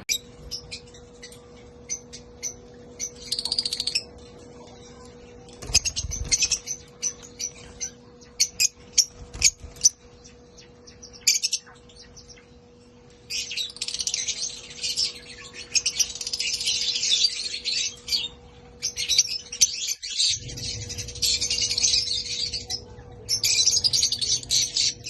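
Peach-faced lovebirds chirping: scattered short, high chirps at first, then long stretches of rapid, shrill chatter from about halfway through. A faint steady hum runs underneath.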